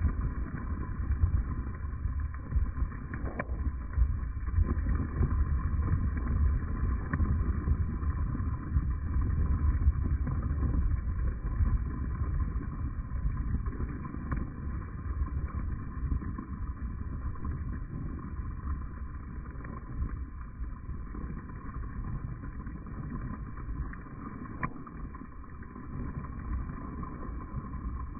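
Slowed-down sound of a Bajaj Dominar motorcycle riding in the rain: a deep, steady rumble of engine, road and rushing air, growing quieter in the second half, with a few faint ticks.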